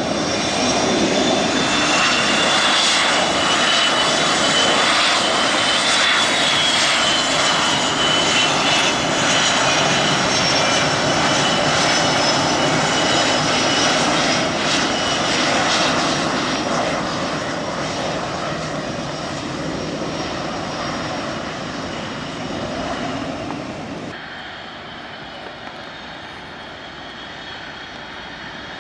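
Blue Angels F/A-18 Hornet jet engines, a loud, steady roar with a high whine on top. It holds for about the first sixteen seconds, then fades, dropping off sharply about 24 seconds in.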